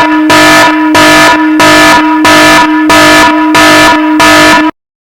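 A loud, horn-like buzzing tone that pulses about one and a half times a second and cuts off suddenly near the end.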